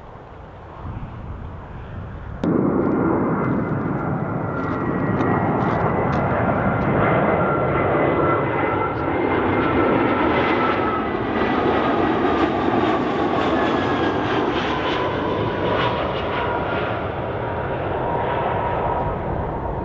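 Jet airliner passing close by, its engines running with a steady roar and a whine of several tones that slowly fall in pitch as it goes past. The sound comes in abruptly about two seconds in.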